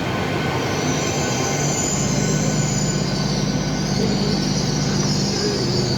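A train moving through the station: a high, wavering wheel squeal from the rails, joined about two seconds in by the steady drone of its diesel engines.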